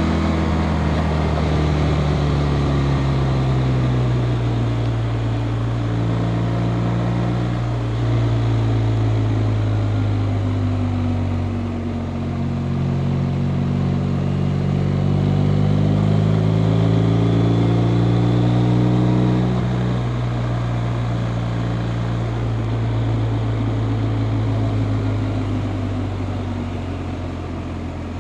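BMW R 1250 RT's 1254 cc boxer-twin engine running under way, its note rising and falling with throttle and gear changes. The pitch drops about twelve seconds in and again about twenty seconds in.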